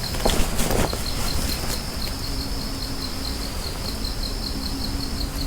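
Crickets chirping: a steady high trill with a rapid, regular pulsing chirp just below it, over a low rumble. There are a couple of soft thumps in the first second.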